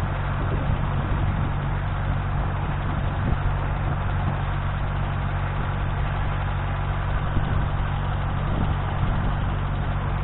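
Robinson R22 helicopter running, a steady drone of engine and rotor with a low hum that holds even throughout.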